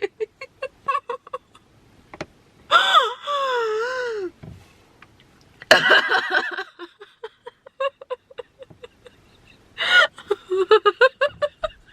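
A woman crying: rapid stuttering sobs and gasps, with a long wavering wail about three seconds in that sinks away at its end, and more sobbing bursts later.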